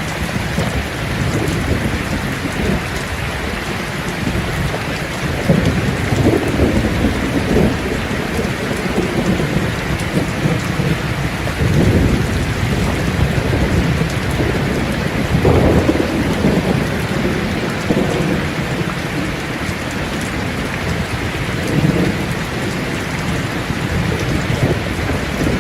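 Steady heavy rain falling, with low rolling thunder swelling and fading several times, most strongly around a third of the way in and again past the middle.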